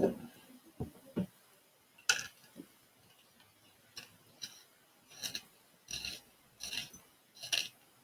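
Colour pencil scratching over textured drawing paper in separate short strokes, scattered at first and then about one stroke every 0.7 s in the second half. A brief low bump right at the start.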